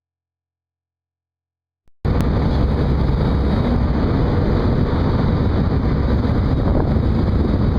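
Silence, then about two seconds in a steady, loud, low rumbling noise on board a ship at sea, running evenly without change.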